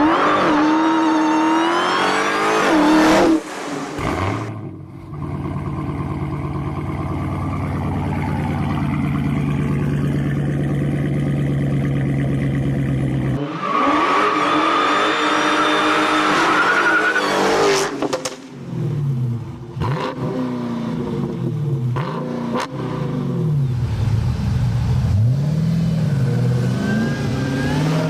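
Supercharged 6.2-litre Hemi V8 of a Dodge SRT running through its exhaust. It revs up at the start and cuts off about three seconds in, then idles steadily with a lumpy beat. About halfway through it revs with a high supercharger whine, and in the later part it is blipped up and down repeatedly.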